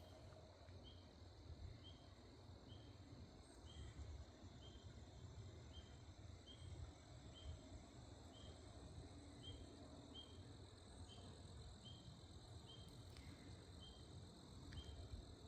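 A cricket chirping faintly and steadily, short high chirps at an even pace of about two a second.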